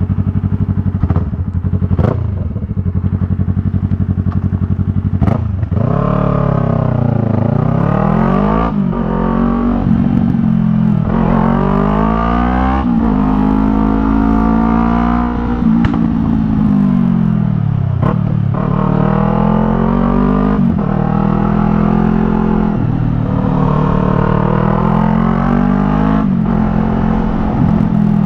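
Yamaha MT-03's 321 cc parallel-twin engine through a Jeskap R3 Cup aftermarket exhaust. It idles steadily for about five seconds with a few sharp clicks, then swells up and down in engine speed again and again, each rise and fall lasting a couple of seconds.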